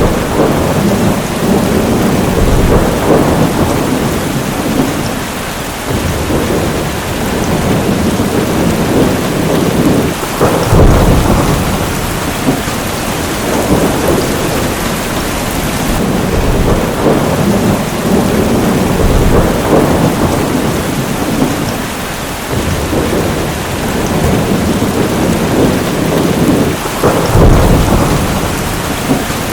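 Heavy rain falling steadily, with rolling thunder swelling and fading again and again, sharper claps about ten seconds in and near the end.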